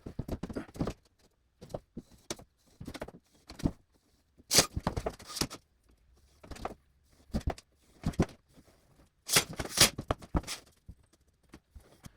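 Scattered knocks and clatters in short clusters with quiet gaps between them, the loudest around five seconds in and again around nine to ten seconds in.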